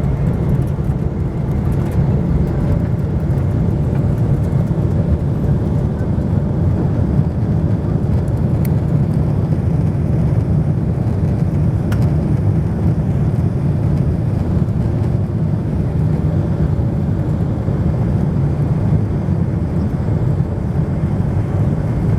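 Steady low rumble of an airliner's engines and airflow heard inside the passenger cabin, even in level throughout.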